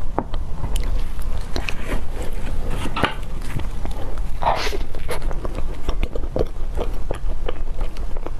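Close-miked eating: biting and chewing with wet smacking and many sharp clicks, and one longer noise about halfway through.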